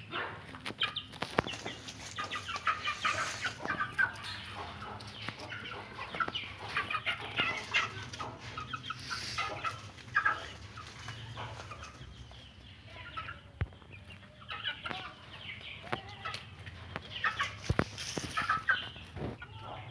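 Hens clucking in many short, repeated calls while being given fresh greens, with a few sharp clicks among them.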